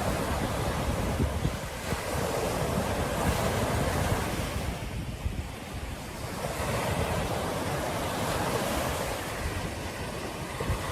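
Ocean surf washing onto a beach, swelling and easing as waves break, with wind buffeting the microphone as a low rumble.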